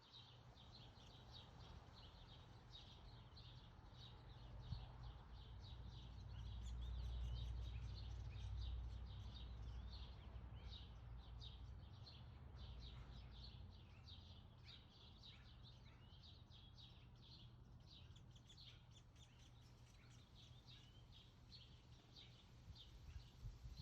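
Faint, rapid chirping of small birds, several short high chirps a second throughout, over a low outdoor rumble that swells for a few seconds near the middle.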